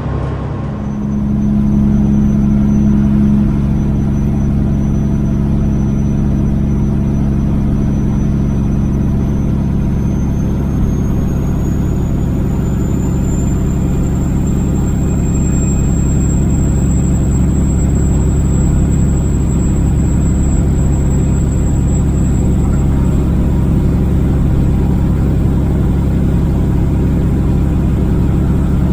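Kenworth W900L semi truck's diesel engine running as the truck drives down the road: a steady low drone that grows louder about a second in. A thin high whine rises in pitch about halfway through.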